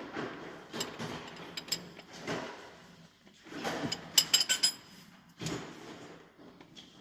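Hand tools working a diesel engine's rocker-arm valve adjuster, the adjusting screw and lock nut: irregular metallic clicks and scraping, with a quick run of sharp metal clinks about four seconds in. The exhaust valve lash is being reset because it was too tight.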